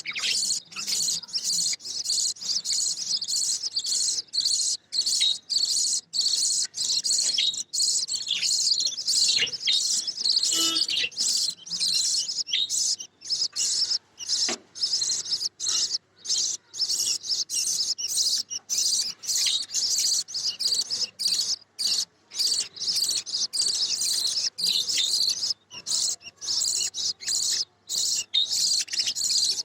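Budgerigars chattering and warbling, a dense, unbroken run of high chirps with many brief gaps.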